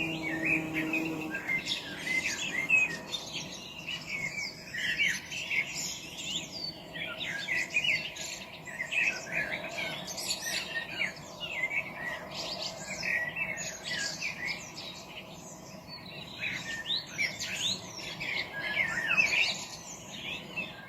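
Several songbirds chirping and singing at once in woodland, a dense chorus of short overlapping calls and trills that runs on without a break.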